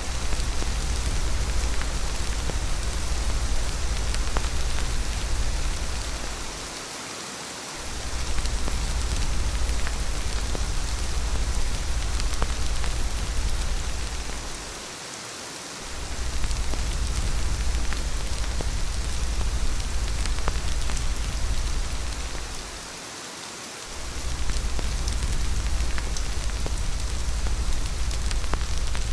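Steady heavy rain with scattered drop ticks, over a deep low rumble that dips away for about a second roughly every eight seconds.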